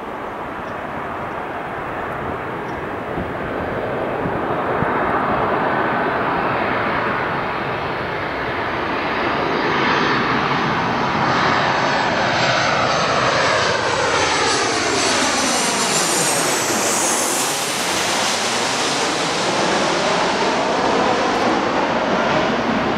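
Jet airliner's engines passing close by. The noise builds over the first few seconds and stays loud, with a sweeping shift in tone as the aircraft goes past.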